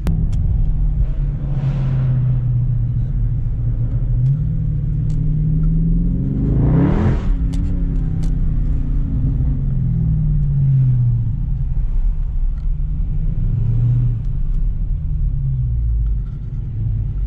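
Cars driving in traffic with a steady engine and exhaust rumble whose pitch rises and falls. A louder vehicle swells up and passes about seven seconds in, with a smaller swell about two seconds in.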